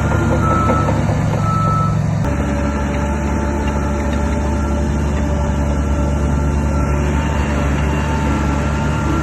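Heavy earthmoving machinery's diesel engine running steadily, with a reverse warning alarm beeping over it. The engine note changes abruptly about two seconds in.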